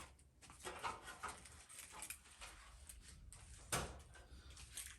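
Faint rustling and handling noises, with one light knock nearly four seconds in.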